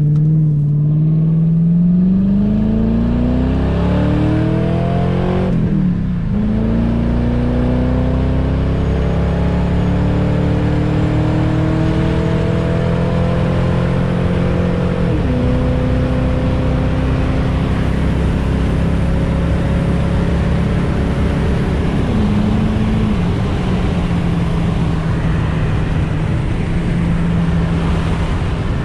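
Ford Crown Victoria's V8 heard from inside the cabin as the car accelerates. The engine note climbs and drops at each automatic upshift, about six, fifteen and twenty-two seconds in, then settles to a steady cruise with tyre and road noise.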